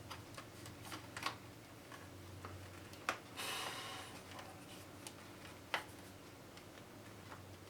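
Scattered clicks and taps of a boombox's plastic and metal parts being handled and pried at while its chassis is worked loose from the case, with a short scrape about three seconds in.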